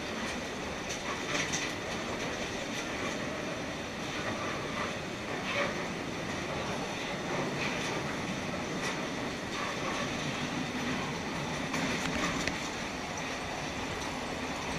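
Train running along the track, heard from inside an old wooden passenger carriage: a steady rumble and rattle of wheels on rails, with occasional sharp clacks.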